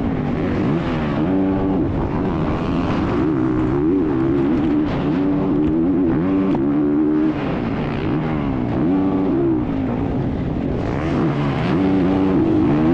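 Dirt bike engine revving hard and easing off again and again, its pitch climbing and dropping every second or two, under a steady rush of noise.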